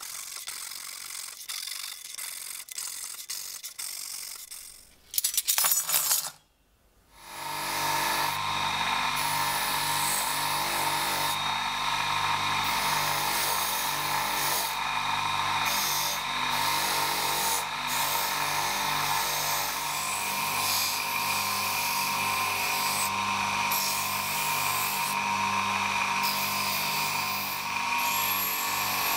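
A power tool's motor running steadily while material is held against it, with a continuous rubbing sound of the workpiece being worked. It starts about seven seconds in, after fainter scraping, a short loud burst and a moment of quiet.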